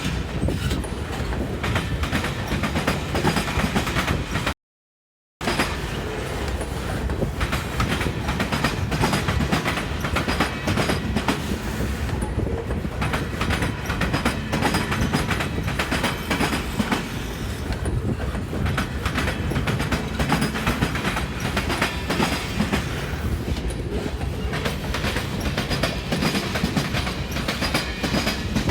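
Freight train cars rolling along the track, wheels clicking and clacking over rail joints with a steady low rumble. The sound cuts out completely for under a second about five seconds in.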